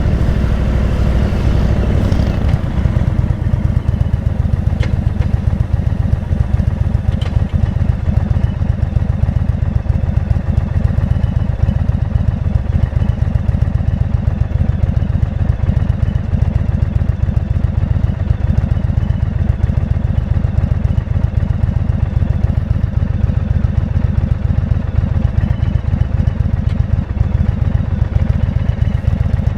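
Motorcycle engine running steadily while riding, a continuous deep exhaust note.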